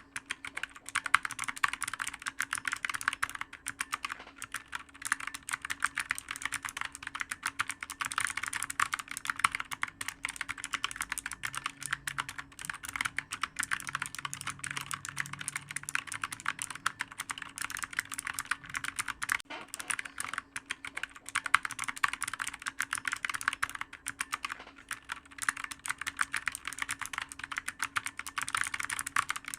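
Continuous fast typing on a clicky computer keyboard: a dense, unbroken stream of key clicks with no pauses.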